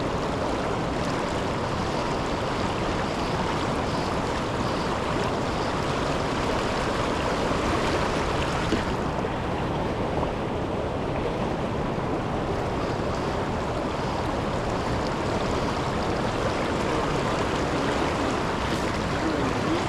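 Steady rush of river water pouring over a waterfall.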